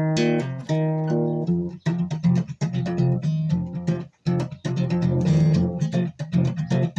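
Solo guitar playing a blues passage, picked notes and strums, with a brief stop about four seconds in.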